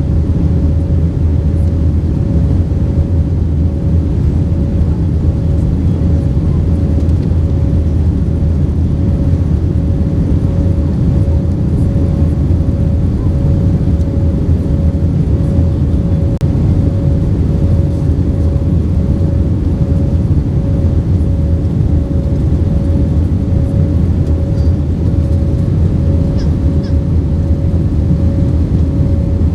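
Airbus A320-232's jet engines running steadily, heard inside the cabin as a loud, even low rumble with a steady thin hum above it.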